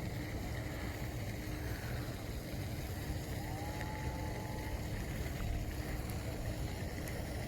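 Steady low rumble with a faint, even hum underneath; no distinct events.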